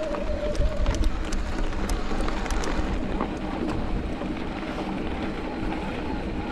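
Mountain bike riding along a dirt trail: steady tyre and wind noise, with scattered small clicks and rattles in the first few seconds.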